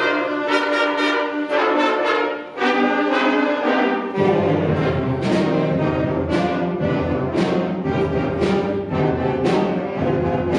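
Middle school concert band playing, with the brass section to the fore. Low brass joins about four seconds in, and sharp accents then fall about once a second.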